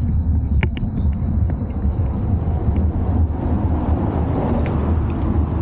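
Steady low rumble of wind and movement buffeting the rider-mounted camera's microphone as a mountain bike climbs, with a few sharp clicks about half a second in.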